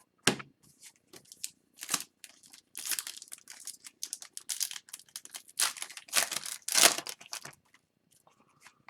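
Hockey trading cards being handled and slid across one another. A quick run of rustling, scraping strokes dies away about a second before the end.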